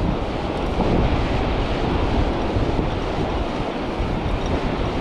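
Wind buffeting the microphone, a steady low rumbling noise, over waves washing on the shore.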